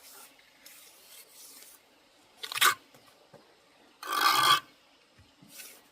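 A series of rough scraping strokes at uneven intervals. The loudest comes about four seconds in and lasts about half a second, with a short sharp one a little before it.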